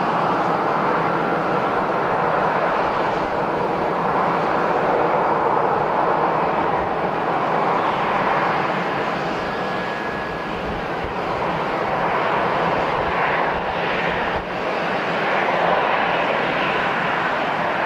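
Airliner engines running, a loud, steady rushing noise with slight swells.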